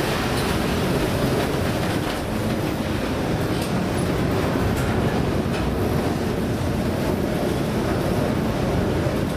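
Loud, steady rumbling noise of wind and heavy seas around a ship in rough weather.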